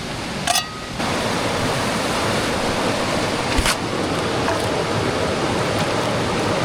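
Steady rush of a mountain creek's flowing water, starting abruptly about a second in, with a single sharp tick midway.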